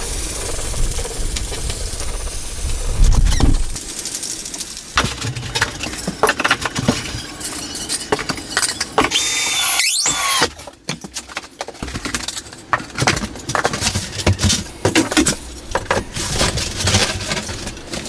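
Building-work noise: many quick knocks and clatter from tools and materials, with a short rising squeal about nine to ten seconds in.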